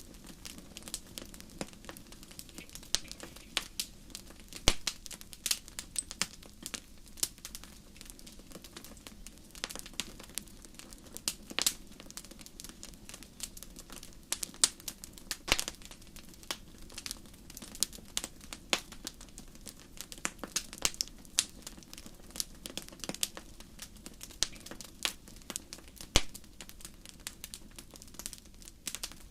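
Wood fire burning in a fireplace, crackling steadily with irregular sharp pops, some louder than others, over a steady low background.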